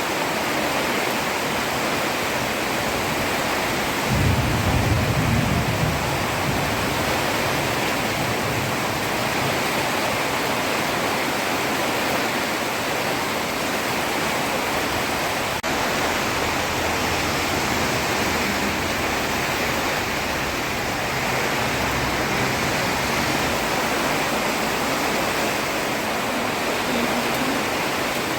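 Heavy rain falling steadily on a road, a dense even hiss, with a brief low rumble about four seconds in.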